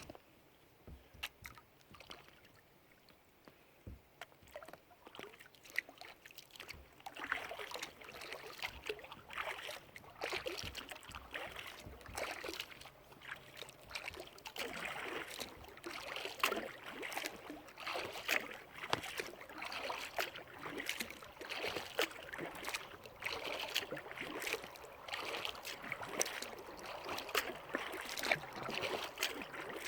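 Kayak paddle strokes: the blades dip and splash in the water, with drips running off the paddle, a stroke every second or two. The paddling starts about seven seconds in, after a quiet stretch with a few light knocks.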